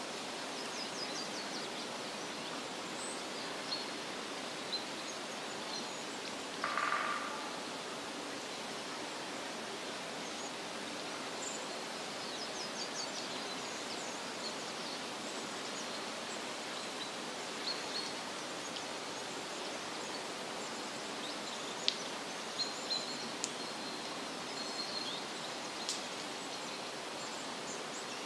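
Forest ambience: a steady hiss of background noise with faint, high bird chirps scattered throughout. A short croaking call stands out about seven seconds in.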